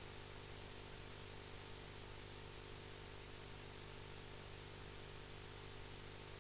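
Faint steady hiss with a low electrical hum underneath; no calls or other distinct sounds stand out.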